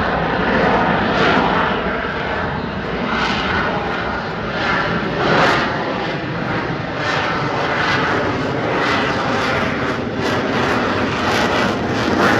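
Airplane engine running loud, a dense steady roar that swells and eases irregularly.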